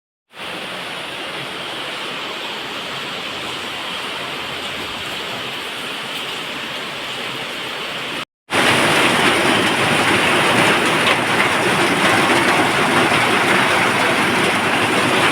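Heavy rain falling, a steady hiss, in two stretches: a brief cut about 8 seconds in, then the rain comes back louder.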